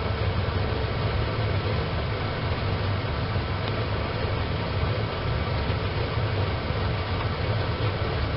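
Wood-burning camp stove fire burning with a steady low rumble, with one faint crackle about three and a half seconds in.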